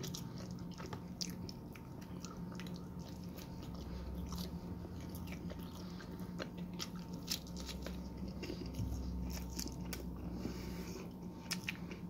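A person chewing a mouthful of cheesy garlic pizza with close, wet mouth sounds and small irregular crunches of crust, over a faint steady hum.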